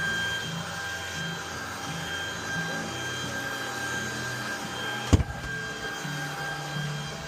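Vacuum cleaner running with a steady high whine as a sofa is hoovered, with one sharp knock about five seconds in.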